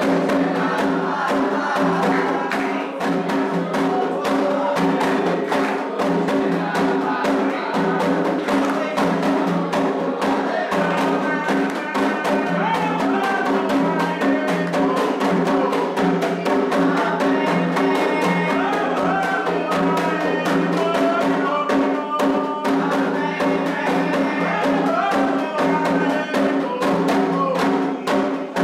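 Candomblé toque for Omolu: atabaque hand drums beating a fast, steady rhythm with singing voices over it.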